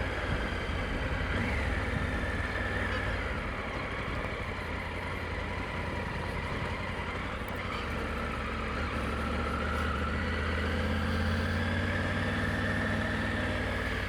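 Motorcycle engine running steadily while riding, its pitch rising a little from about eight seconds in.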